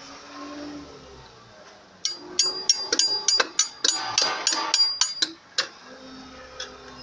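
Rapid hammer blows on metal with a bright ring, about three to four a second, starting about two seconds in and stopping a little past five seconds; a low workshop murmur lies under the start.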